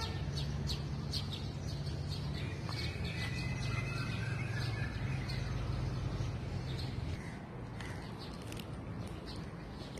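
Birds chirping and whistling, over a low steady hum that fades about seven seconds in.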